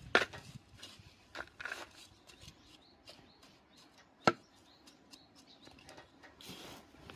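Hand-handling noises while working kitchen scraps into compost: scattered light rustles and taps, with a sharp click just after the start and a louder single click about four seconds in.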